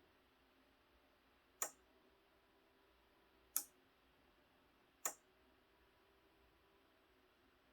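An electromechanical relay switching a power strip on and off clicks three times at uneven intervals, sharp single snaps meant to stand in for firewood crackling in a campfire.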